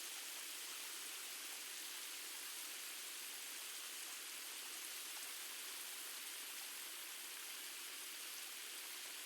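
Steady, faint rain: an even hiss of falling rain with no drops standing out.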